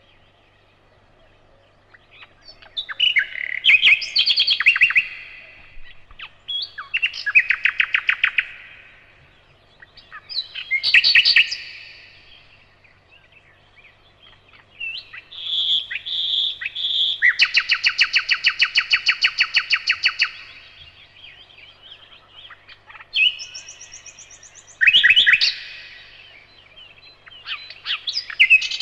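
Nightingale singing in separate phrases of rapid repeated notes and trills, with pauses of a second or more between them. About fifteen seconds in, three loud piping whistles lead into a long, fast run of repeated notes lasting about three seconds.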